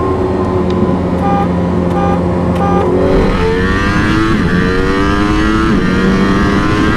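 A high-performance engine rolling at steady speed, with a few short beeps about a second in, then accelerating hard from about three seconds in. Its pitch climbs and drops back at each upshift as it pulls through the gears in a roll race.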